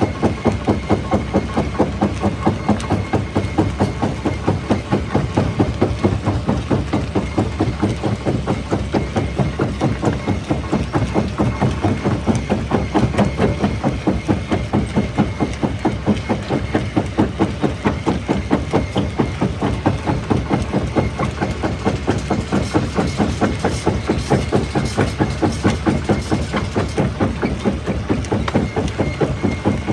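Jaw rock crusher running, with an even mechanical pulse of about three beats a second over a low drone and a thin steady whine.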